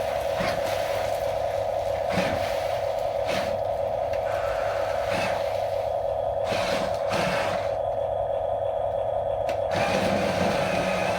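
Small electric motor of a radio-controlled toy construction vehicle whining steadily, with several sharp plastic clicks and knocks scattered through.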